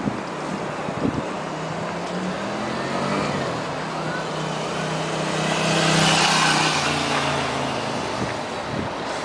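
A motor vehicle's engine running with a steady hum. It grows louder to a peak with a rush of noise about six seconds in, then fades somewhat, as if passing close by.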